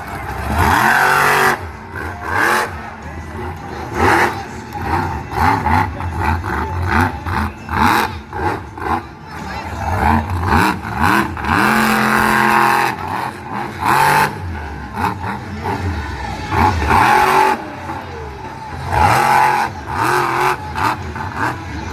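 Monster truck engine revving hard again and again, pitch climbing and dropping back, with sharp bangs in between.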